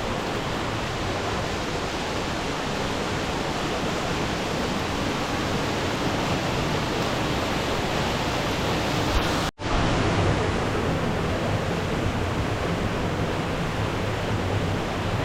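Steady rush of fast-flowing water from a mountain waterfall or river. It breaks off for an instant about halfway through and resumes with a little more low rumble.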